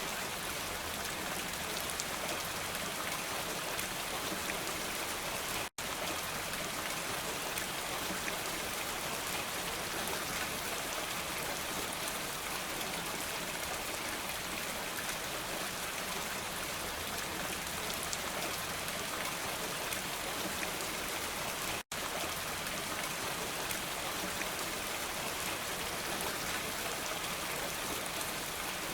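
Steady rain falling: an even hiss full of small drop patters. It cuts out for an instant twice, about six seconds in and again about twenty-two seconds in.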